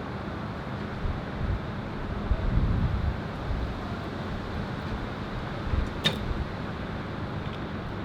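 Wind buffeting the microphone in uneven low gusts, strongest a few seconds in, over a steady low hum. One sharp click about six seconds in.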